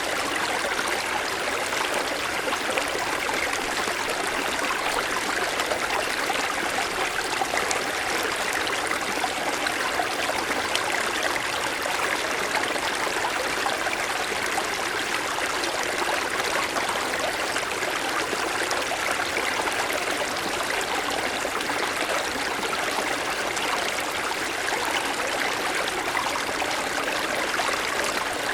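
Mountain forest stream flowing over snow-covered stones: a steady rushing babble of water that keeps an even level throughout.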